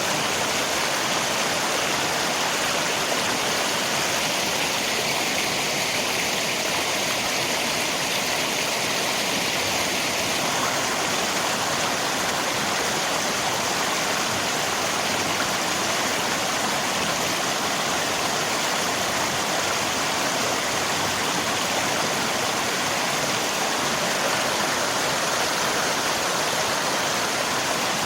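River water rushing steadily, mixed with falling rain.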